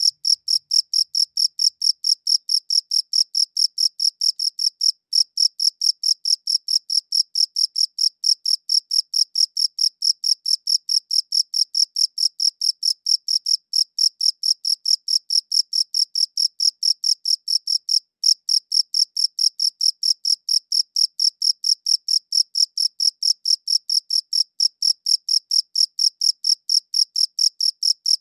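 A cricket chirping close by: a steady, even train of high-pitched chirps, about three or four a second, with a few momentary breaks.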